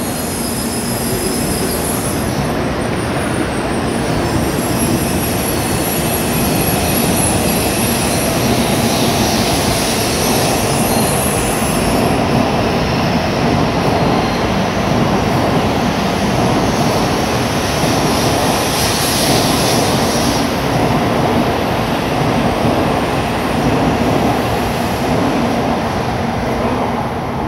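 An N700A Shinkansen train accelerating out of the station, its cars running past at close range in a steady rush of wheel and air noise. The noise eases near the end as the last car clears.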